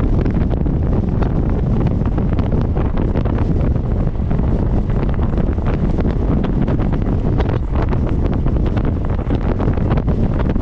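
Heavy wind buffeting the microphone from a moving MEMU electric train, over the train's steady running rumble.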